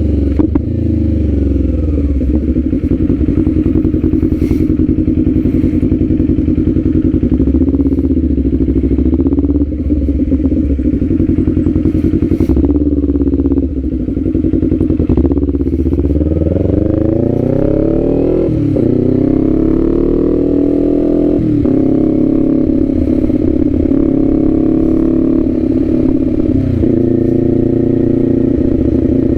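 Kawasaki Z400's 399 cc parallel-twin engine running under way, steady at first, then revving up from about halfway. The pitch climbs and drops back sharply three times as it shifts up through the gears.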